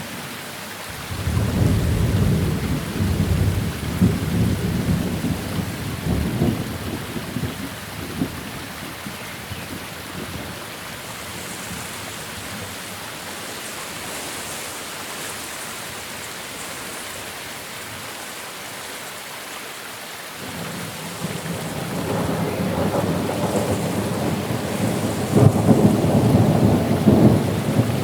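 Steady rain with two long rolls of thunder, the first starting about a second in and fading over several seconds, the second building from about two-thirds of the way through and loudest near the end.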